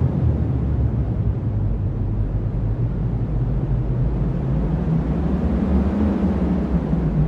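Cyclone wind blowing hard as a steady, deep rumble, without gusts or breaks.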